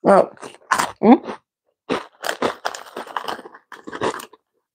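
Twisties chicken-flavoured corn snacks being chewed close to the microphone: a couple of short vocal sounds in the first second, then about two seconds of irregular crunching.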